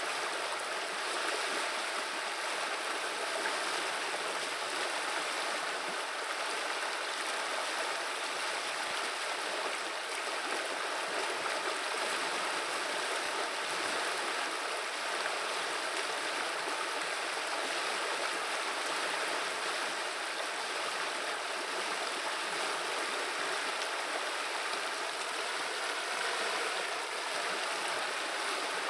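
River water flowing and babbling, a steady even rush with no breaks.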